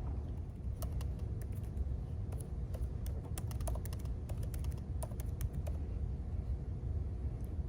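Typing on a computer keyboard: a run of quick key clicks that thins out about six seconds in, over a steady low rumble of room noise.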